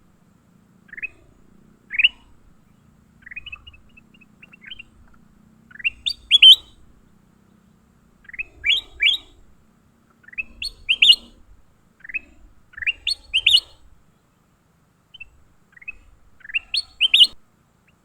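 A songbird calling repeatedly: short rising chirps, mostly in twos and threes, every second or two, the loudest about six seconds in.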